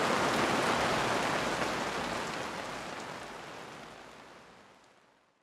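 Heavy rain pouring down and splashing on a laser projector's housing, a steady hiss that fades away to silence over the last couple of seconds.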